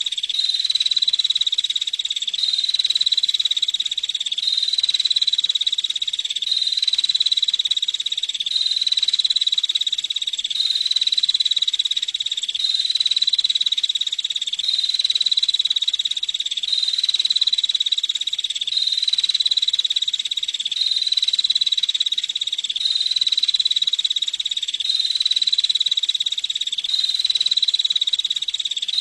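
Female prinia (prenjak) calling in a rapid, high trill with no pause, the same phrase repeating about every two seconds.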